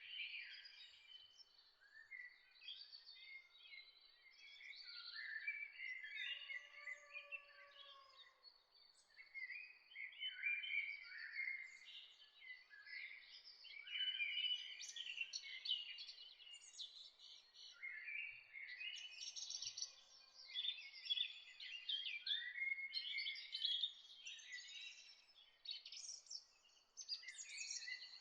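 Several songbirds chirping and trilling continuously, many short overlapping calls, with a faint hiss of background noise. A softer, lower drawn-out whistle comes in briefly about six seconds in.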